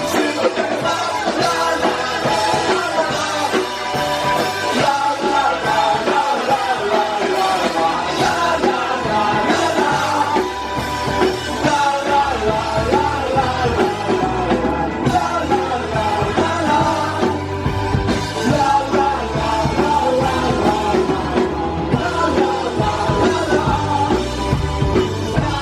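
Live punk rock band playing loudly, with some singing over the band.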